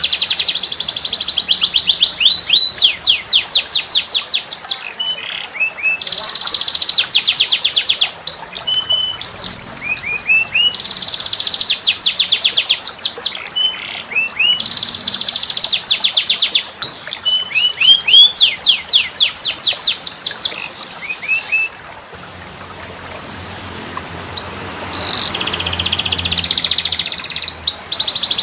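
Recorded songbird song for training caged birds: fast, loud trills of rapid sweeping notes, repeated in bursts every few seconds with short chirps between. The trills stop about three-quarters of the way through and a quieter, different call rises in their place before the trills come back.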